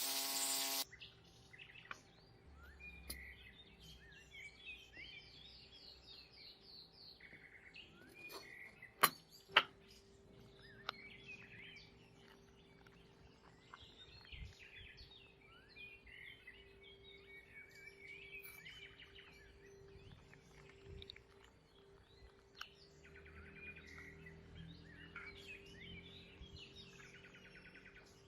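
Small birds chirping and singing, faint, over a steady low hum. A loud hiss cuts off just under a second in, and two sharp clicks come close together about nine seconds in.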